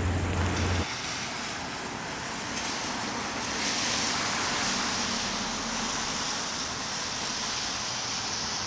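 Steady rushing noise with no clear pitch; a low hum underneath stops about a second in.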